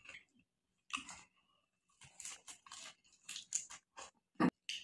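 Close-miked chewing and lip smacks of a man eating a meal of rice and chicken curry by hand: a string of short, irregular wet mouth sounds, the sharpest a little before the end.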